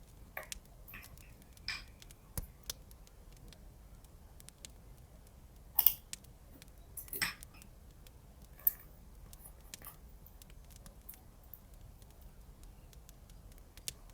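Scattered light clicks and brief rustles of paper and tape being handled while journaling, the sharpest pair about six and seven seconds in, over a faint low hum.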